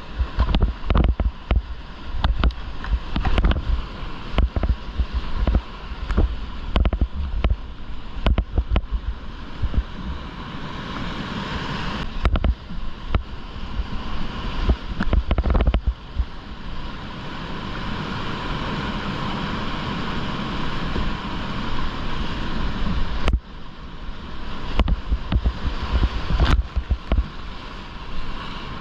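Whitewater rapids rushing, with frequent splashes and water buffeting against the GoPro's microphone in short heavy thumps. About 23 seconds in, the sound drops out for an instant and then returns.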